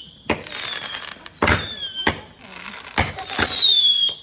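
Ground-launched fireworks going off: several sharp bangs spaced about a second apart, with faint whistling between them. A little after three seconds a loud whistling shot sounds, dropping slightly in pitch.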